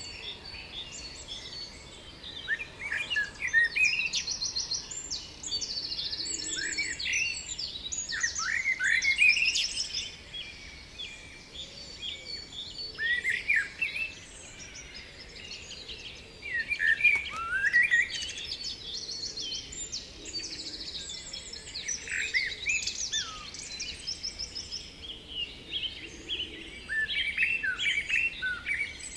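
Several songbirds singing at once: a continuous, overlapping mix of chirps, whistled phrases and fast trills.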